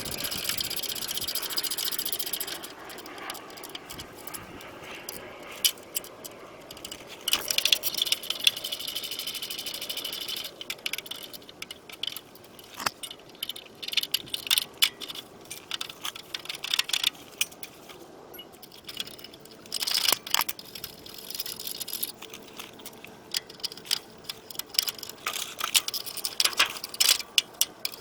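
Metal hand tools clinking and rattling against parts of a car during engine removal. Scattered sharp knocks, with stretches of dense rapid clicking at the start, around the middle and near the end.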